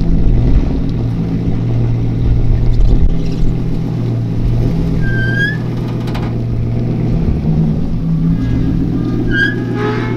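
Car engine running with a steady low drone, with two short high chirps about five seconds in and near the end.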